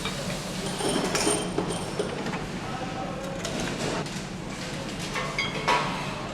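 Engine assembly line ambience: a steady machinery hum with irregular metallic clanks and ringing clinks of parts and tools, the loudest about a second in and near the end.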